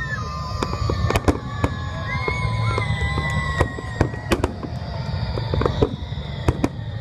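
Fireworks display: aerial shells bursting in a rapid series of sharp bangs and crackles over a low rumble, with long, slowly falling whistling tones.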